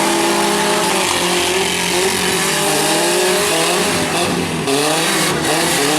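Several compact truck and van engines revving hard at once, their pitch rising and falling as they accelerate and back off, over a constant noisy din.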